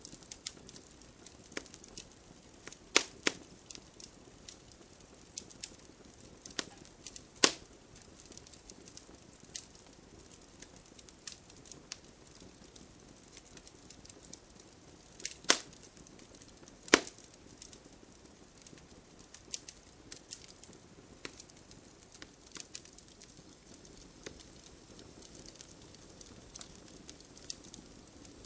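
Wood fire crackling with irregular small snaps and a few loud pops, the loudest about three seconds in, seven seconds in, and twice close together around the middle.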